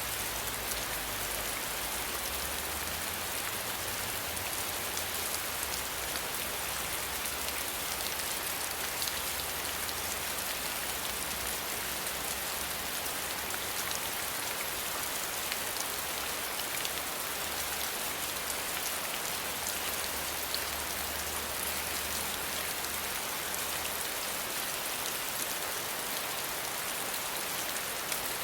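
Steady rain falling and pattering on surfaces, with scattered individual drops, over a faint low rumble that comes and goes.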